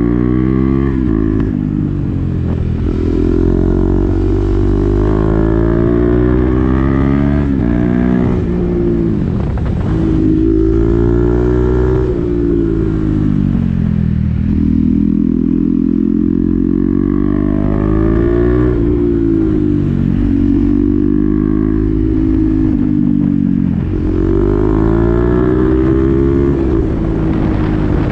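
2020 KTM Duke 390's single-cylinder engine through an SC-Project aftermarket exhaust with the dB killer fitted, under way. It revs up and falls in pitch over and over as it shifts through gears, with a few stretches of steadier running.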